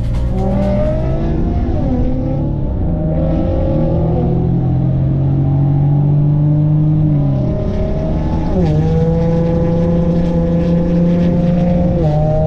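Car engine running and revving, its pitch rising and falling with the revs. It holds steady for a few seconds at a time and drops sharply about eight and a half seconds in.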